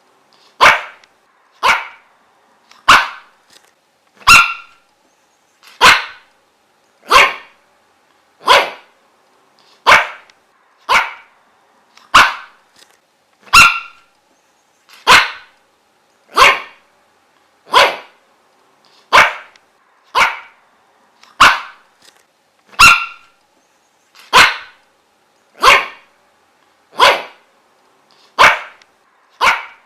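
A dog barking single loud barks at a steady, even pace, about one bark every second and a half, with short gaps between them.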